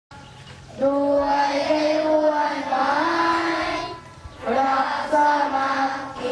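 A group of children singing in unison: two held, sung phrases with a short break about four seconds in.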